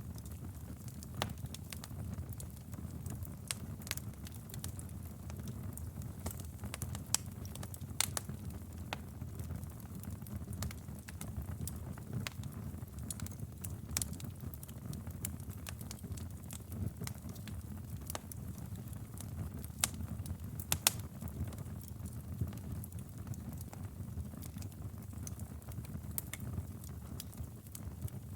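Wood fire burning in a fireplace, crackling with irregular sharp pops and snaps over a low, steady rumble of the flames; a few pops stand out louder.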